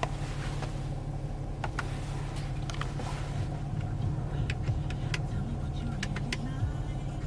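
Low steady hum of a Mercedes ML350 CDI's V6 diesel idling, heard inside the cabin, with a scattering of short sharp clicks from the dashboard controls being pressed.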